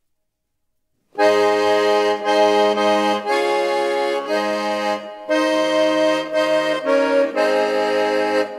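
Accordion playing a chordal introduction with bass notes beneath, starting about a second in and moving in short phrases with brief breaks, as the lead-in to a sung song.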